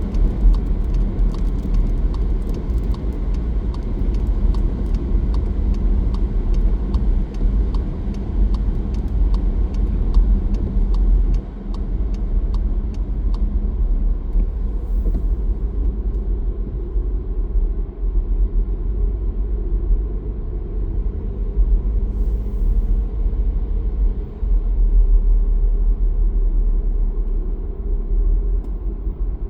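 A car driving on a road: a steady low rumble of engine and tyres. A run of faint, quick clicks runs through the first half.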